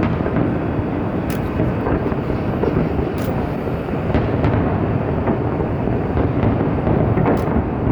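Fireworks booming in a continuous rumbling barrage, with a few sharp cracks standing out about a second in, about three seconds in and near the end.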